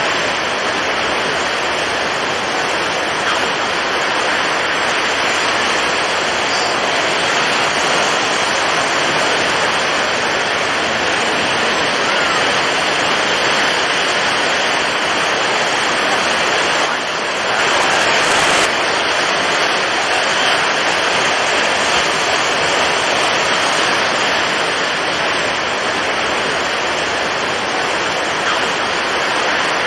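Storm at sea: strong wind and heavy waves blending into a steady, loud rushing noise. It briefly dips and then surges a little past halfway.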